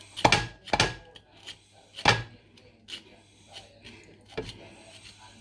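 Citrus zester scraping across orange peel in short, separate strokes, the strongest three in the first two seconds, then lighter strokes about every two-thirds of a second.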